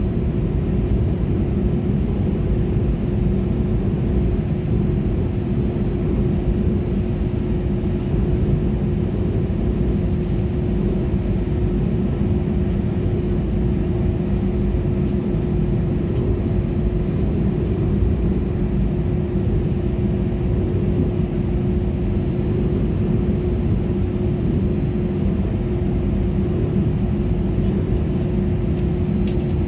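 Cabin noise inside an Airbus A320-214 after landing: a steady low rumble from its CFM56 engines at idle, with an even hum underneath that holds one pitch.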